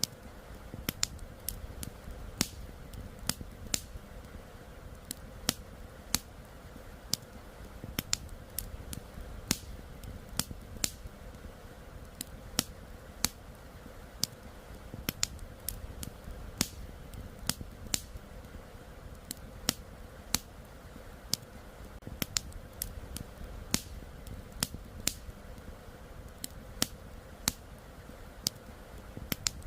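Wood campfire crackling, with sharp pops coming irregularly about twice a second over a steady low rushing background.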